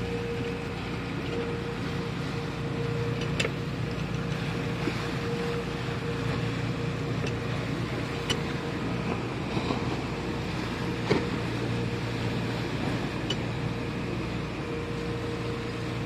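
Steady drone of a boat's engine heard on board, with a constant hum and low rumble, and a few light clicks.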